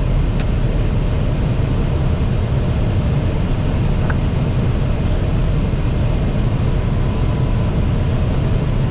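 Steady low rumble in an Airbus A320 cockpit on final approach: airflow and engine noise, with a faint click about half a second in.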